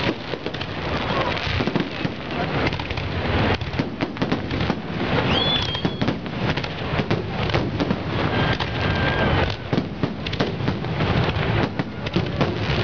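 Aerial fireworks display: a rapid, continuous barrage of shell bursts and crackling, the bangs overlapping densely, with a short whistling glide about five seconds in.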